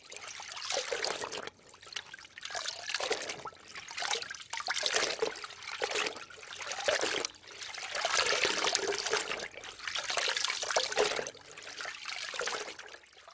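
Water splashing and trickling in about seven surges, one every second or two, each a second or so long.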